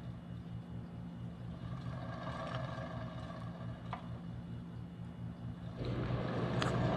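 Rebuilt ceiling fan's motor running in reverse, its bearings flushed and refilled with Tri-Flow: a steady low hum with a regular pulsing, growing louder near the end.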